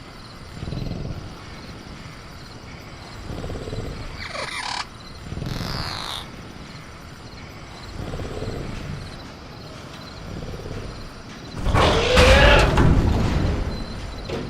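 Sound-effect velociraptor in a cage: low growls, two short high calls gliding down in pitch a few seconds in, and a loud burst near the end with a deep rumble and a pitched cry. Soft crickets chirp steadily underneath.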